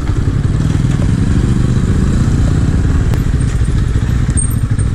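Small-displacement motorcycle engine running steadily under way, its exhaust a fast, even pulsing.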